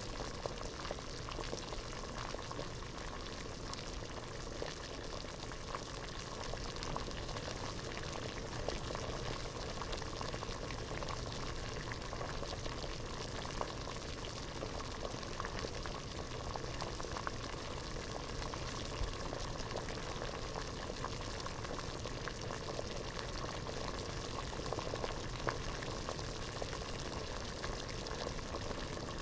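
Water at a rolling boil in a pot, bubbling steadily with many small pops and crackles.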